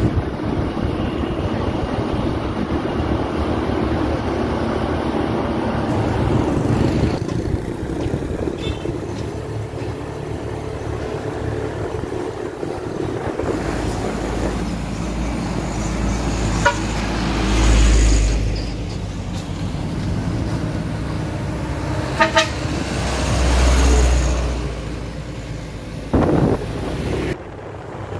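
Truck engine and vehicle noise running steadily, with wind buffeting the microphone in two low swells and a couple of short horn toots about two thirds of the way through.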